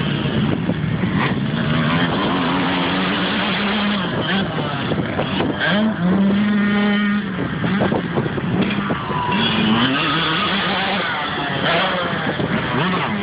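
Dirt bike engine running and revving up and down repeatedly, with a short steady-throttle stretch about six seconds in.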